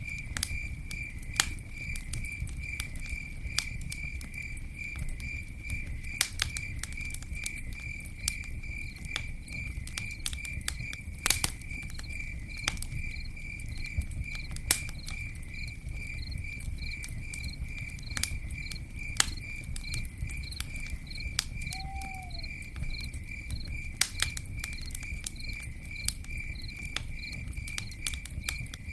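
Campfire burning: scattered sharp crackles and pops over a low steady rumble of the flames. A chirping insect keeps up a steady high pulsing note throughout, and a single short falling note sounds about three-quarters of the way through.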